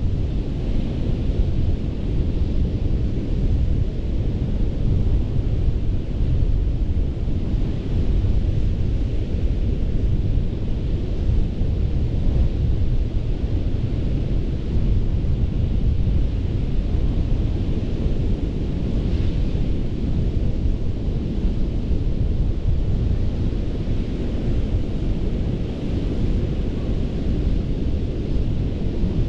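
Surf on a sandy Gulf beach: a steady rush of waves, with wind buffeting the microphone and adding a heavy low rumble.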